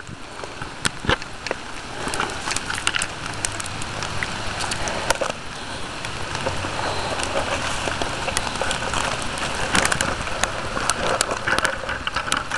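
Heavy rain coming down hard, a steady hiss studded with many sharp clicks, as the camera is fumbled and handled close to the microphone.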